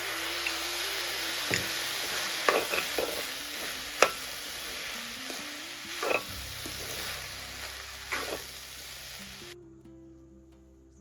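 Food sizzling as it fries in a pan, with a cooking spoon scraping and tapping against the pan five or six times as it is stirred. The sizzle cuts off suddenly near the end, leaving soft background music.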